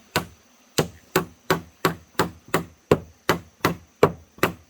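Hammer striking wood in a steady run of about a dozen blows, roughly three a second, each with a short ringing knock: nailing wooden boards in place.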